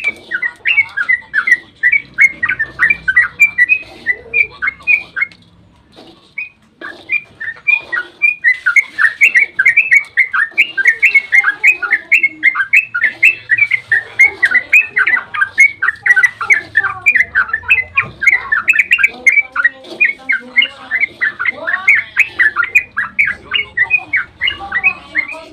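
Yellow-vented bulbul (trucukan) singing a long, rapid chattering 'ropel' run of short bubbly notes, several a second. The run falls quiet briefly about six seconds in, then resumes.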